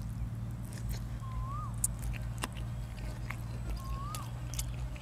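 A person chewing and biting food close to the microphone: scattered sharp clicks and crunches over a steady low hum. A short chirp that rises and then falls is heard twice, about two and a half seconds apart.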